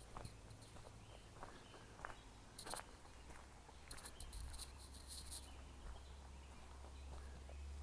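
Footsteps of a person walking a trail, a few separate steps in the first three seconds, then a quick run of high clicks about four seconds in, over a steady low rumble.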